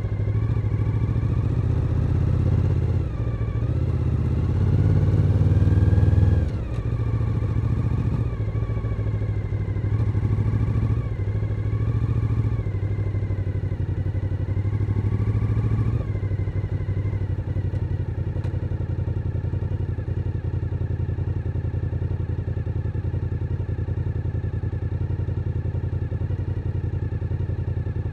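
Suzuki SV1000N's 90-degree V-twin engine on the move: the revs climb to a peak about six seconds in and drop sharply, a few shorter rises follow, and from about sixteen seconds it holds a steady, lower note.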